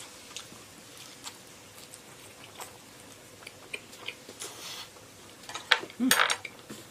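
Close-miked chewing of a bite of fried eggplant box (battered eggplant stuffed with minced meat): faint, scattered small wet clicks from the mouth. A louder, short noisy burst comes about six seconds in.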